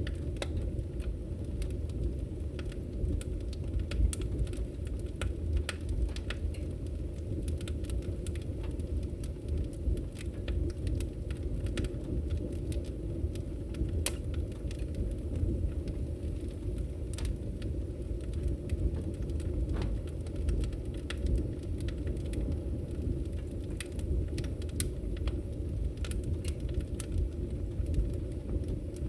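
Campfire burning: a steady low rush from the flames with scattered sharp crackles and pops at irregular moments.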